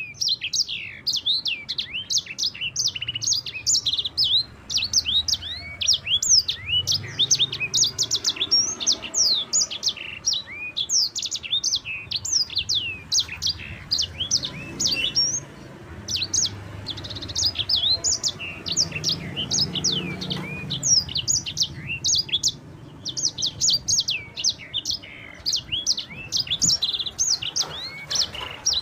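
Sanger (yellow-fronted canary, 'mozambik') singing a fast, continuous rolling song of high chirps and sweeping trills, with two short breaks, one about halfway through and one about two-thirds of the way in.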